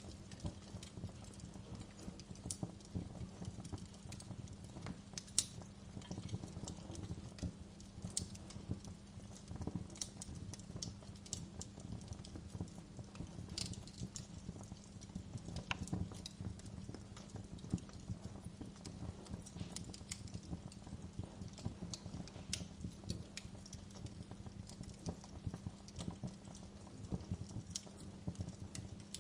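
Wood fire burning in a fireplace: a steady low rumble of flames with frequent irregular crackles and pops, some sharper and louder than the rest.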